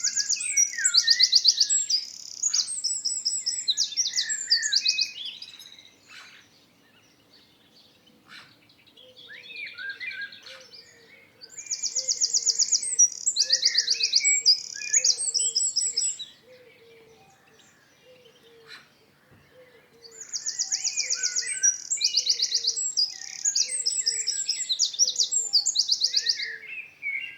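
A songbird singing in three bouts of about five seconds each, with short pauses between them. Each bout is a quick series of high, fast trills and chirping notes. A faint, low, regular chirp repeats underneath through the second half.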